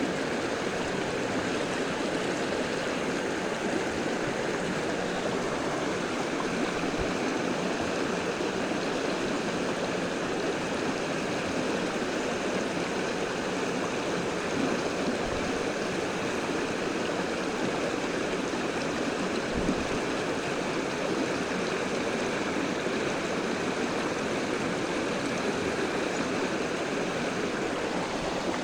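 Stream water flowing steadily over shallows.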